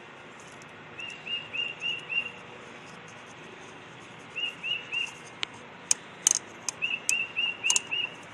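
A small bird chirping in quick runs of four or five short, even notes, three runs in all. From about halfway on, a few sharp clicks sound among the chirps.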